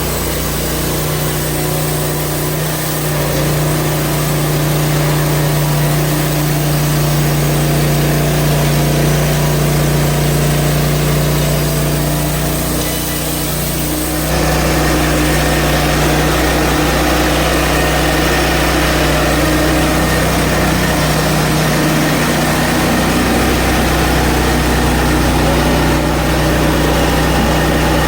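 Gas engine of a Hud-Son HFE30 portable band sawmill running steadily while the band blade saws through a maple log. The sound changes character about halfway through.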